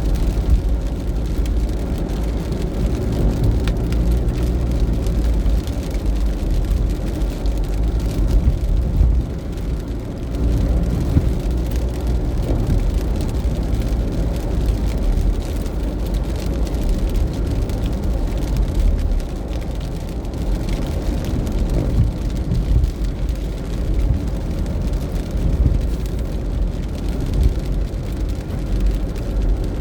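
Steady rain with a heavy low rumble.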